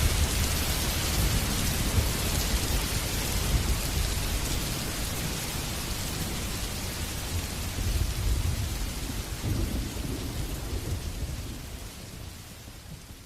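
Heavy rain pouring steadily, with low rumbling thunder swelling under it about two-thirds of the way in. The whole storm fades out toward the end.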